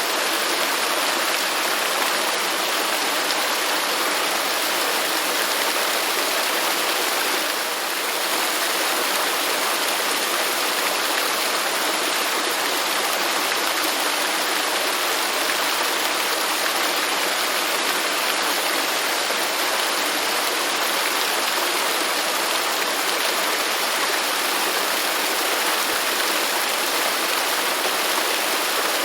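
Waterfall: a steady, even rush of falling water, with a slight brief dip in loudness about eight seconds in.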